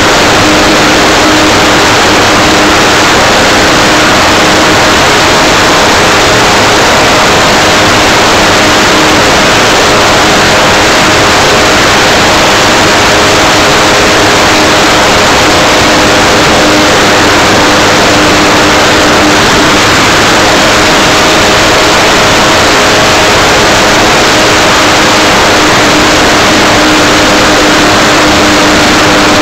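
Motor and propeller of an Art-Tech Cessna 182 RC model plane running steadily, heard through a camera mounted on its nose just behind the prop: a loud, unbroken rush of prop noise with a steady hum under it.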